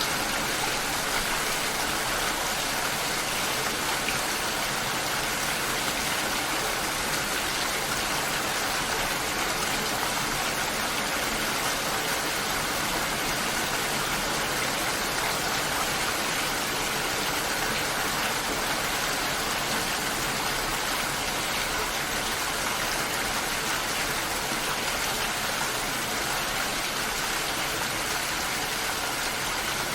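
Steady rain, an even hiss with no distinct drops, thunder or changes in level.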